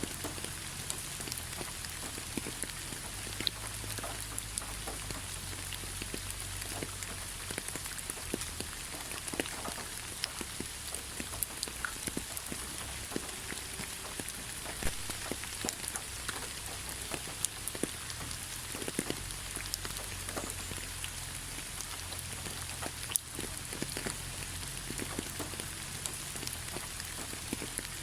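Steady rain falling on a forest road: a dense, even hiss, with many single drops ticking sharply close by.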